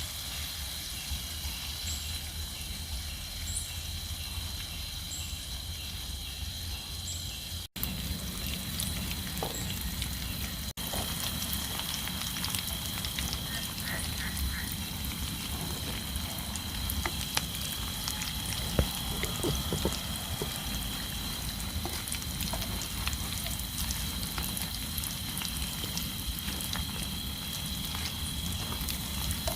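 Heavy rain falling steadily, with scattered drops ticking close by and a steady high-pitched drone under it. The sound cuts out for a moment about eight seconds in.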